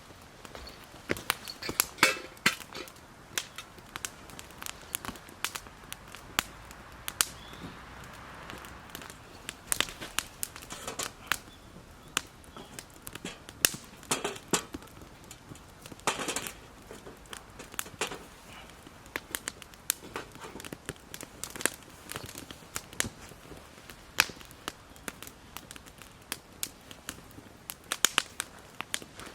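Dry wood and twigs snapping and crackling in irregular sharp clicks, with louder clusters of snaps now and then.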